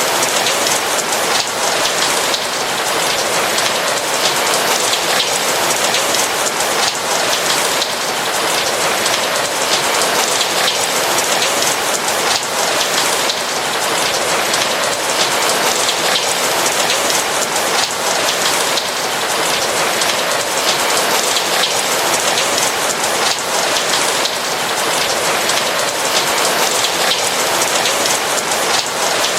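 Steady rain falling on a roof: an even hiss of many raindrops, without thunder.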